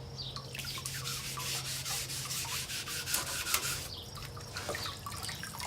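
Abrasive scouring pad scrubbing loosened rust and crud off a wet, electrolytically derusted milling table in quick back-and-forth strokes.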